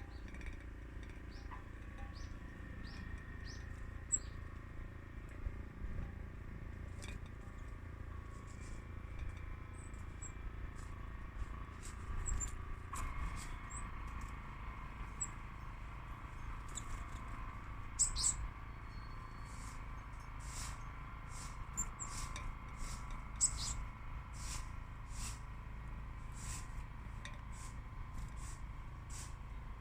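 Small garden birds chirping: short, high calls, sparse at first and coming thick and fast through the second half, over a steady low rumble.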